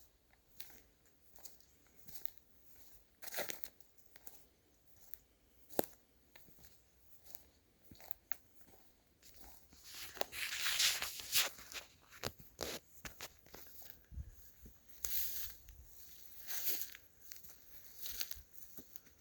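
Footsteps crunching through dry leaves and twigs on a forest floor at a steady walking pace, with a crunch a little under once a second, louder and busier in the middle of the stretch.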